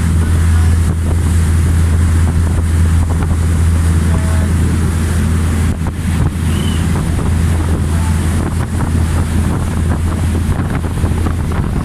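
A boat's engine running with a steady low drone, mixed with wind buffeting the microphone and the rush of water.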